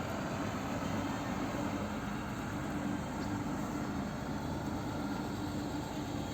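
A steady mechanical drone: a low, even hum over constant background noise.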